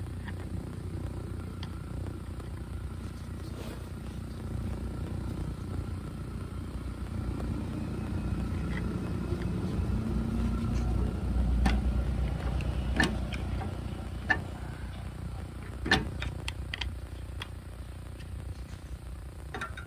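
A few sharp metal clicks and knocks from a tool compressing a brake caliper piston, most of them in the second half, over a steady low rumble that swells around the middle.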